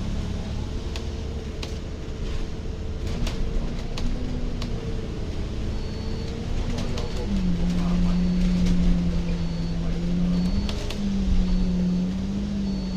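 A vehicle engine running in street traffic, with a low rumble and a steady hum that drops in pitch about seven seconds in. From about six seconds in, a short high electronic beep repeats roughly twice a second.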